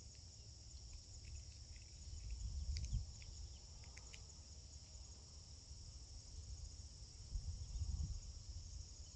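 A steady, high-pitched chorus of insects chirping in a fast even pulse, with a low rumble rising about three seconds in and again near the end, and a few faint clicks between.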